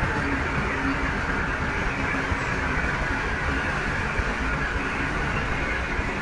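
Shantui bulldozer's diesel engine running steadily while working, a dense low mechanical noise at an even level.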